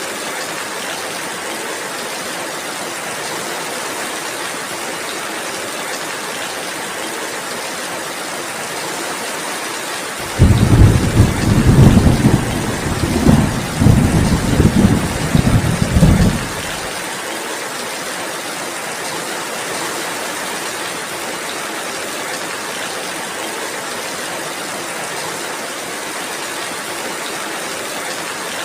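Steady rain hissing throughout. About ten seconds in, a low rolling rumble of thunder lasts some six seconds, swelling and fading several times, and is the loudest sound.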